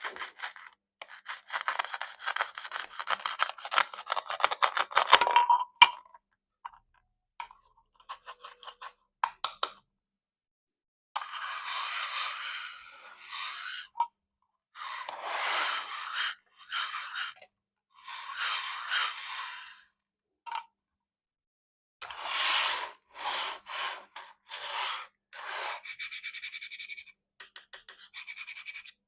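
A knife cutting plastic toy fruit and vegetables, in scratchy scraping strokes of one to five seconds with pauses and a few single clicks between them. Near the end comes a fast run of small ticks.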